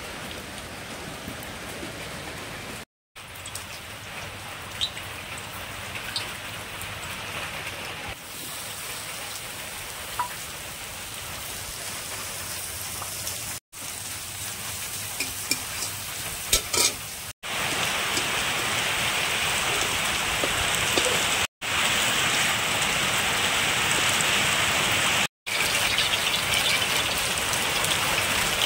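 Food frying in hot oil in a pan, a steady sizzle across several cut-together clips. It grows louder and brighter after a cut about two-thirds of the way in, and a few light clicks come just before that.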